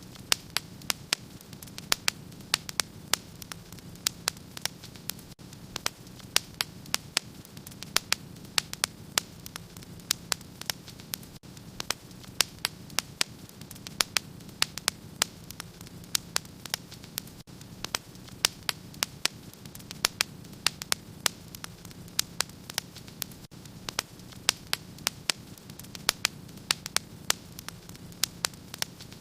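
Fireplace fire crackling: frequent sharp pops and snaps, several a second at irregular intervals, over a steady low rush of burning.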